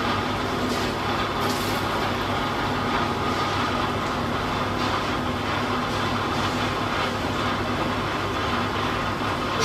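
Steady hum of running machinery, with a few short hisses.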